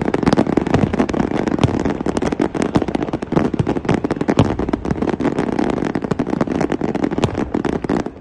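Fireworks display going off in a dense, rapid string of bangs and crackles, many reports a second without a break.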